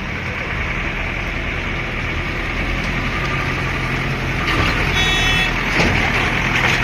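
Road traffic: vehicle engines running and passing, with a short high-pitched horn toot about five seconds in.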